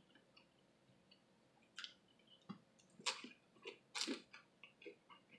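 Quiet, close-miked eating sounds: wet chewing and small lip clicks, with a few louder sharp smacks a couple of seconds in, the loudest as fingers are sucked clean at the lips.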